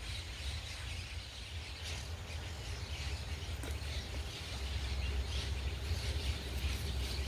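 Outdoor ambience: faint bird chirps over a steady low rumble and hiss.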